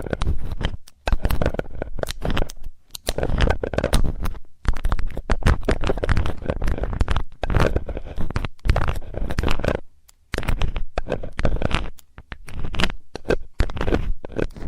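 Close-up scratching and scraping of a metal ear-cleaning tool worked over a microphone's ear, in irregular runs of strokes about a second long with brief pauses between them.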